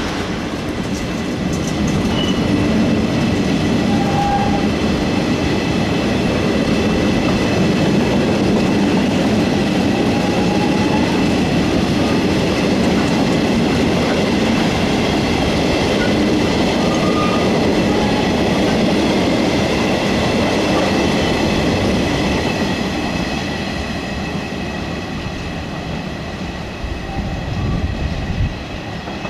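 Freight train of empty steel-carrier flat wagons rolling past with a steady rumble of wheels on the rails and a thin high ringing over it. It fades over the last few seconds as the tail of the train moves away.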